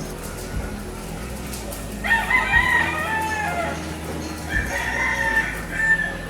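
A rooster crowing twice, each crow a long call that falls in pitch near its end, the first about two seconds in and the second about four and a half seconds in.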